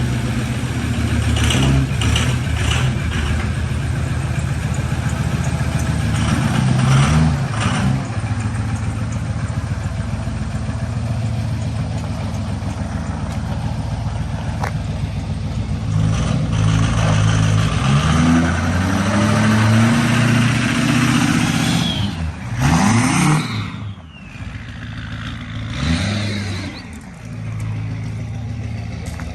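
Ford 6.0 Powerstroke turbodiesel V8 running just after a cold start, revved several times, its pitch rising and falling, with a couple of quick, sharp revs near the end.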